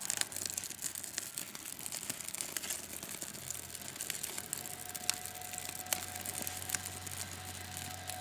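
Birch bark burning under birch and aspen firewood, crackling steadily with irregular sharp snaps and pops as the fire catches.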